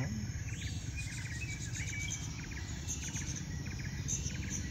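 Outdoor field ambience: short chirps from insects and birds repeat every half second or so over a steady low rumble.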